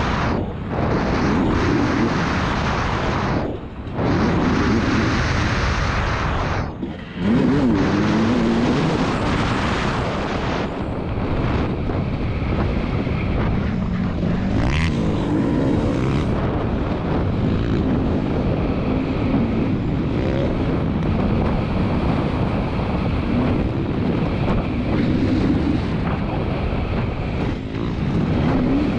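2022 KTM 300 TPI single-cylinder two-stroke motocross engine being ridden hard, its pitch rising and falling again and again as the throttle is worked. There are brief drops, when the throttle is shut off, a few times in the first seven seconds.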